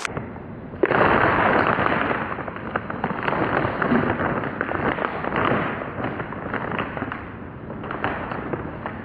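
Close-up crunching and chewing of Cheetos Puffs white cheddar cheese puffs: a dense crackle that starts suddenly just under a second in and keeps going with uneven swells.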